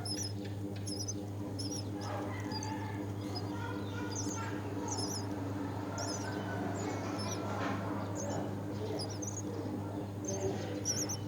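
Myna nestlings giving short, high squeaky cheeps again and again over a steady low hum.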